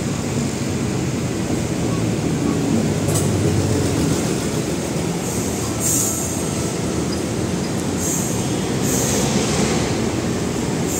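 PNR INKA diesel multiple unit (DMU 8102) arriving at a station platform, with a steady low rumble of engines and wheels as the cars roll past. Short high-pitched bursts come about halfway through and again near the end.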